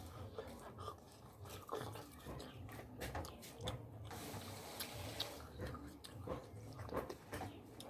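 Close-up wet chewing and mouth smacking of a person eating curry, a quick irregular string of short moist clicks with a brief hissy patch about halfway through.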